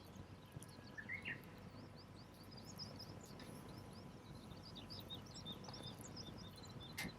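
Small birds twittering in quick, high chirps over a low outdoor hiss, with a brief rising call about a second in. Near the end a single sharp pop from the wood fire.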